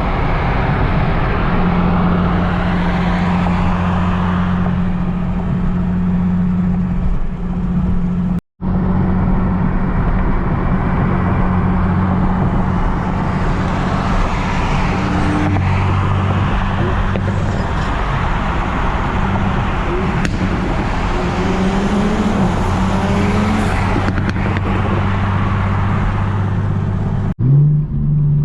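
Nissan 370Z Nismo's 3.7-litre V6 engine droning at steady cruising revs over road noise while driving. The sound cuts out briefly twice, about a third of the way in and near the end.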